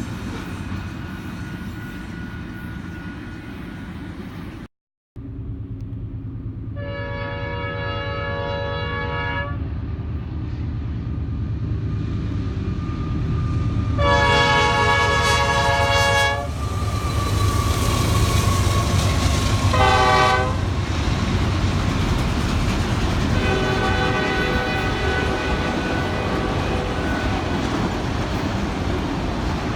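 Union Pacific diesel locomotive's multi-chime air horn sounding the grade-crossing signal of long, long, short, long over the steady rumble of the train; the last blast is fainter. A brief break about five seconds in cuts from one stretch of train rumble to the next.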